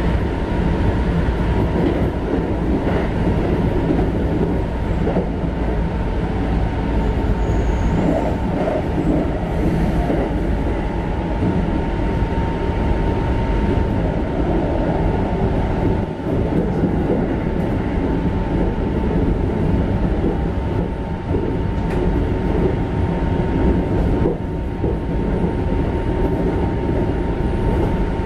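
Keikyu 1500 series electric train (Mitsubishi GTO-VVVF control) running at speed, heard inside the passenger car: a steady rumble of wheels and track with a thin, constant whine above it.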